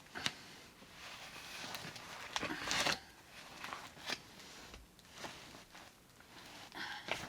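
Rustling and crinkling with scattered light clicks and knocks as insulation is pulled about and handled in a tight space, a longer louder rustle coming about two and a half seconds in.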